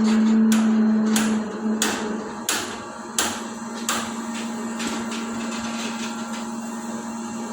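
Construction-site clatter during a concrete pour: a steady machine hum with a series of irregular hammer-like knocks, the sharpest about three seconds in. The knocks come quicker in the first half.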